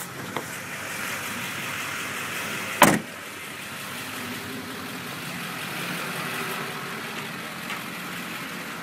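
A vehicle engine running steadily, with one loud thump a little under three seconds in.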